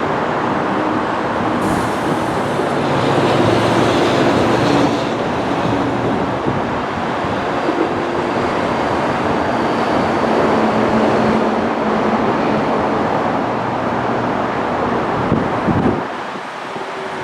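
DART light rail train running, a steady rumble with a few low humming tones; the low rumble drops away about sixteen seconds in.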